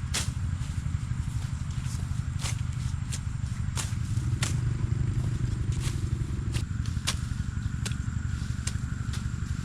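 A small engine running steadily with a low rumble, and sharp knocks or clicks at irregular intervals, roughly one a second.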